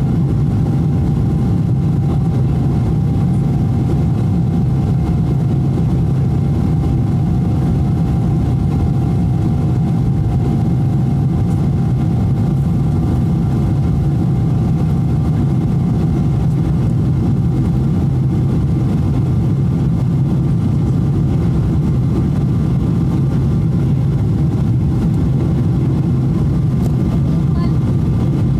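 Steady cabin noise inside a Boeing 777-200 in flight: a deep, even rumble of engines and airflow with a faint steady whine above it.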